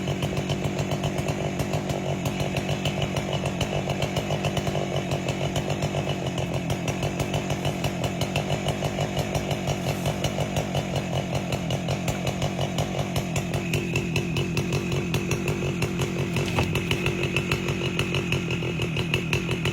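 Chainsaw with a 30-inch bar running steadily at high revs, ripping an albasia log lengthwise.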